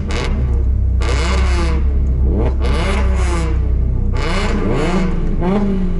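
BMW racing car engines revving on the grid, blipped up and down about every second or two over a steady low engine drone.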